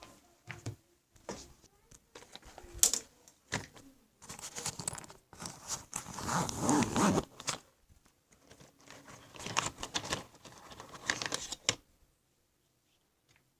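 Household handling noises in a small room: irregular rustling, crinkling and tapping in short bursts, stopping shortly before the end.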